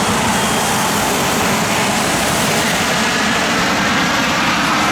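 Jet aircraft engine noise, a loud steady rush; the highest hiss fades about three seconds in.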